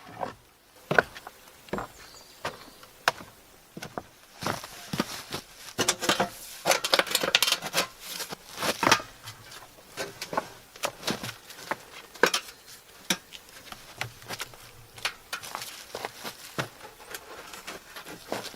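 Wooden pallet boards being worked by hand: irregular knocks and taps of wood on wood, with a busier stretch of scraping and rustling from about four and a half to nine seconds in.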